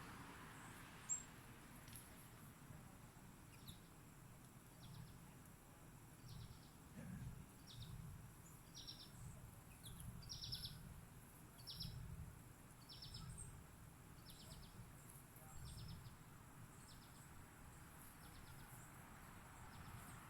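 A small bird chirping faintly over and over, one short high note about every second, with a faint low rumble underneath.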